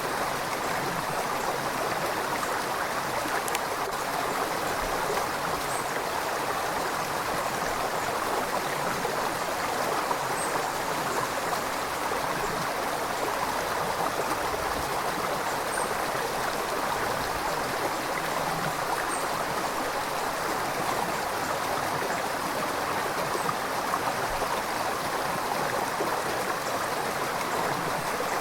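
River water flowing steadily over rocks: a constant rushing and gurgling.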